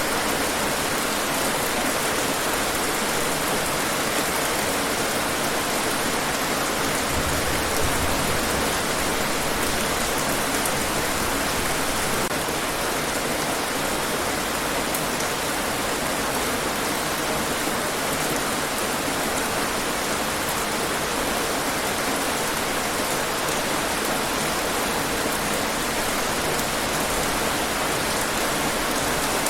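Steady rain falling on hard surfaces, an even patter with no change in strength.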